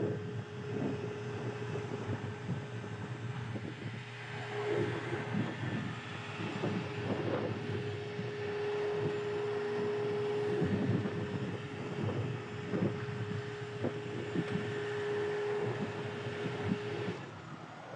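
Heavy rotator tow truck running with a steady whine that cuts off suddenly about a second before the end, under a constant mechanical rumble with scattered clanks and knocks.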